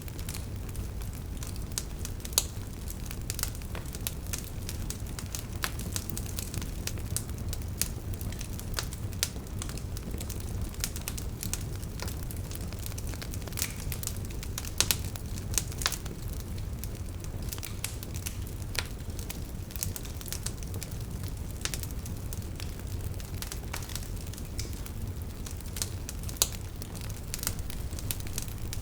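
Wood fire burning, with a steady low rumble of flames and frequent sharp, irregular crackles and pops from the logs.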